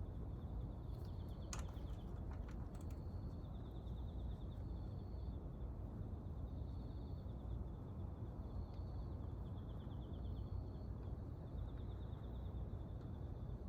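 Short, high, trilled chirps from a small animal, repeating every couple of seconds over a steady low rumble, with a few sharp clicks about a second and a half in.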